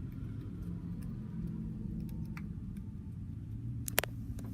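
Light clicks and taps of a small object being handled, with one sharper click about four seconds in, over a low steady hum.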